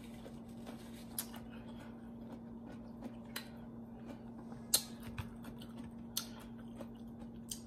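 Close-up eating sounds: quiet chewing with a few sharp clicks and smacks as a fork goes to the mouth. A steady low hum runs underneath.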